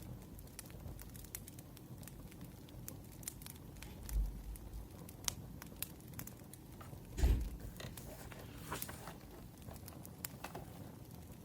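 Wood fire crackling, with scattered sharp pops throughout. Two soft low thumps with a brief rustle stand out, about four and seven seconds in.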